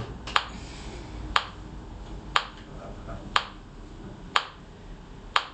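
Metronome clicking a steady beat of one click a second, six clicks in all, setting the tempo for a scale.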